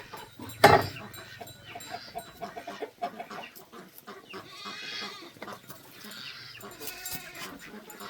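Farm animals calling, with a loud short sharp sound just under a second in.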